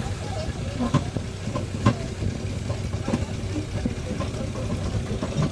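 Vehicle engine running steadily with a low hum, with sharp knocks and rattles at irregular moments, the loudest about two seconds in.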